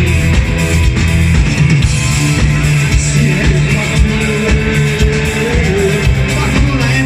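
Rock band playing a song live at concert volume, with a voice singing over the band.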